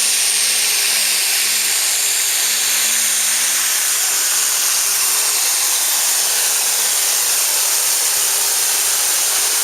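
Turbocharged diesel pulling tractor at full throttle on a pull, a loud, steady rush of engine and turbo noise with a faint whine slowly falling in pitch.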